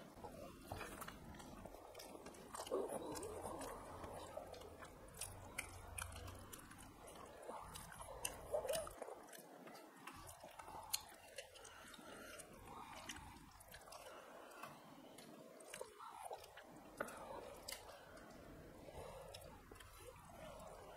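People chewing mouthfuls of rice and fish curry eaten by hand, with many small wet clicks and smacks.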